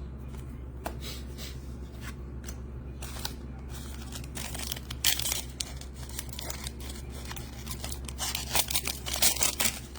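Trading-card packs being opened and cards handled by hand: wrappers rustling, tearing and snipping, with scattered clicks over a steady low hum. The handling gets busier about five seconds in and again near the end.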